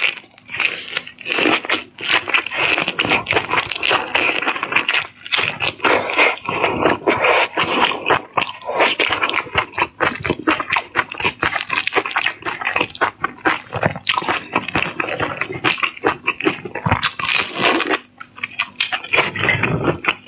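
Close-miked eating sounds: seafood being bitten and chewed, with dense, irregular crunching and crackling.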